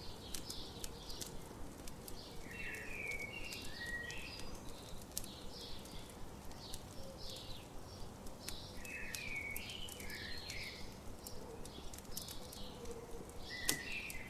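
A campfire crackling with scattered sharp pops, one louder pop near the end, under songbirds singing short, repeated chirping phrases.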